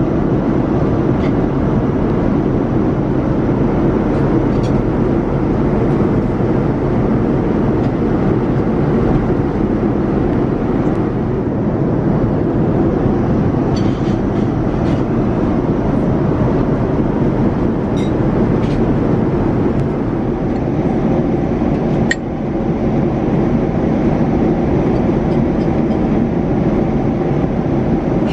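Steady cabin noise of a Boeing 787-9 airliner in cruise: a constant low rush of air and engine noise. A few faint clicks and clinks sound through it, the sharpest about two-thirds of the way in.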